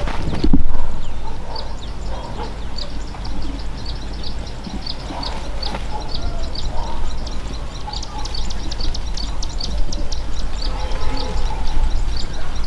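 A small bird chirping, short high notes repeating several times a second from about two seconds in. A low thump near the start is the loudest sound.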